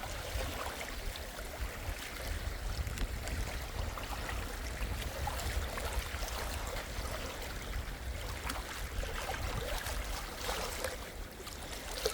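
Small lake waves lapping and splashing against a sandy shore: a steady wash broken by many small splashes. A low rumble of wind on the microphone runs underneath.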